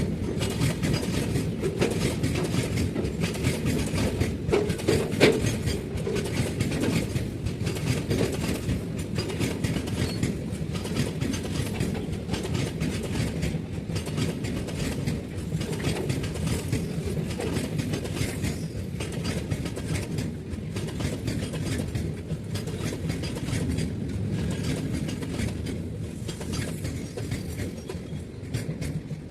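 Goods train running past, a steady rumble of wagon wheels on the rails with many rapid clicks over the rail joints. There is one sharper knock about five seconds in, and the sound eases off slightly near the end.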